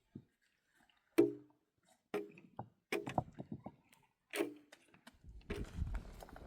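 Four sharp knocks at uneven intervals, each with a short ringing tail. Near the end, a busier run of soft thumps and shuffling begins.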